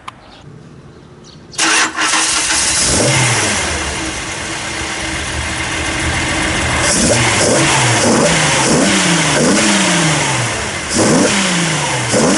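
Freshly overhauled Nissan L28 2.8-litre straight-six starting about a second and a half in, catching and running. It is then revved in several quick blips, rising and falling in pitch, in the last few seconds.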